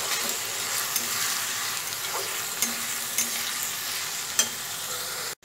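Soaked red lentils with onion and spices sizzling as they fry in oil in a metal kadai, stirred with a metal spatula that scrapes and clicks against the pan several times, the loudest click about four seconds in. The sound cuts off abruptly at the very end.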